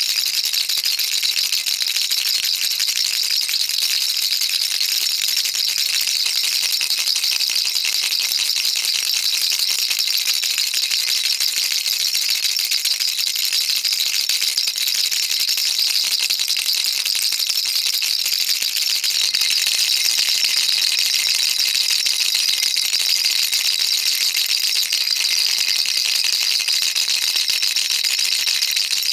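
Baby rattle shaken continuously: a dense, steady rattling of small beads, bright and high-pitched, with no pauses.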